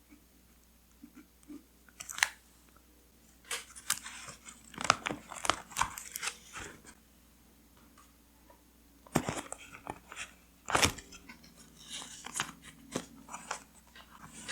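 Paper rustling and crinkling in irregular bursts with small clicks as journal pages and paper scraps are handled, with a quiet pause in the middle.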